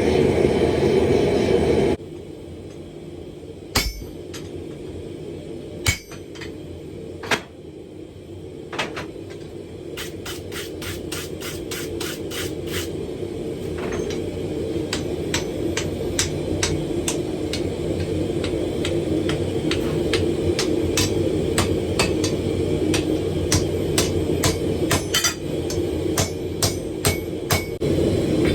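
Hammer blows on hot steel at the anvil, likely the bloom being forged and folded into a bar. A few spaced strikes give way to steady hammering at about two to three blows a second, over a constant roar. A louder rushing noise cuts off abruptly about two seconds in.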